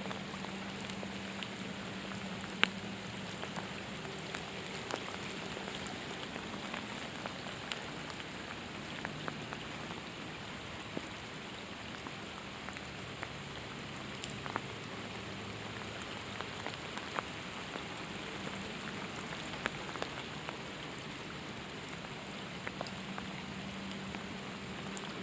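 Steady rain falling, an even hiss dotted with scattered sharper ticks of single drops, one louder tick about two and a half seconds in.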